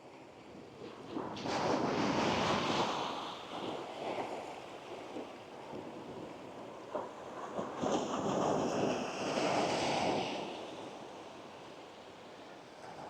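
Gentle sea waves breaking and washing up a sandy beach. The surf swells about a second and a half in, eases, then swells again around eight seconds before dying back.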